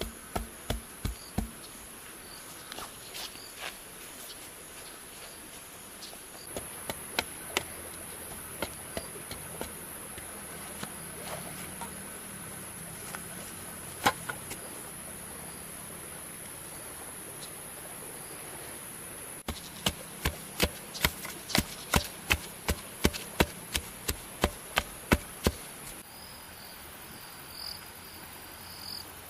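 A steady high drone of insects, with sharp knocks of hand tools striking bamboo. The knocks are scattered at first, with a loud single blow about halfway through, then a quick regular run of about three a second in the latter part.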